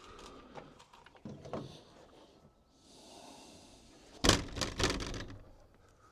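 Faint handling clicks and a short soft hiss, then a loud clatter of several sharp knocks and rattles about four seconds in that dies away within a second.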